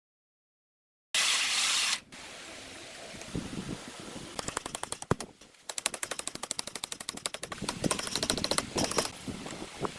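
Power tool working in a workshop: a loud hiss lasting about a second, then rapid machine-gun-like clicking at roughly nine to ten strokes a second, with a brief pause midway.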